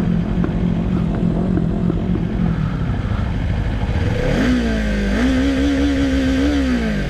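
Motorcycle engine running steadily, dropping in pitch about three seconds in, then revving up about four seconds in and holding higher before easing off near the end.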